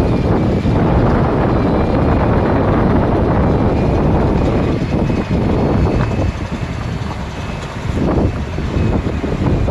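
Bulldozer's diesel engine running with a dense low rumble and a faint steady high whine above it, easing off for a moment a little past the middle before picking up again.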